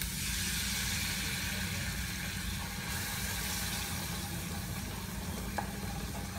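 Ginger-garlic paste and spices in hot oil sizzle loudly as a little water is poured into the kadhai, the hiss strongest for the first three seconds and then easing while a wooden spoon stirs the masala. A steady low hum runs underneath, and the spoon clicks lightly against the pan once near the end.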